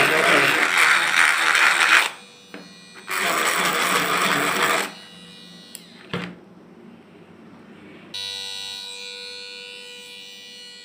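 Small electric drill boring a hole through the plastic body of a homemade humidifier, in two loud bursts that stop about five seconds in. Later the motor runs with a steady whine that slowly fades.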